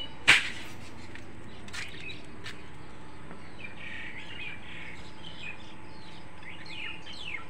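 Birds chirping, with scattered short calls and then a quick run of falling whistled notes near the end. A single sharp click about a third of a second in is the loudest sound.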